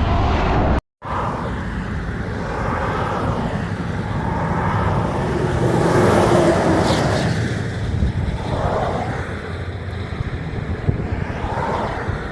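Road traffic passing, with a steady rush of wind and road noise that swells and fades as vehicles go by. The sound drops out completely for a moment about a second in.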